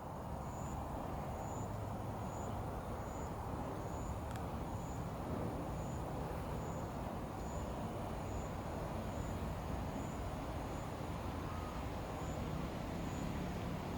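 Steady low background noise with no distinct events, and a faint high chirp repeating about once a second.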